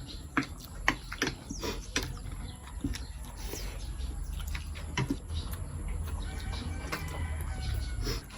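Eating sounds: a run of short, sharp clicks and smacks of chewing and handling food, over a steady low rumble.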